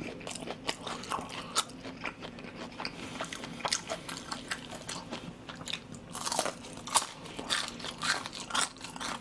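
Close-miked chewing of crispy battered fried pork (soy-sauce tangsuyuk): a run of sharp crunches and bites, thickest from about six seconds in.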